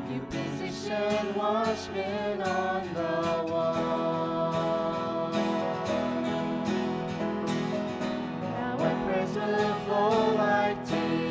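Worship song: a voice singing with a wavering vibrato over instrumental accompaniment.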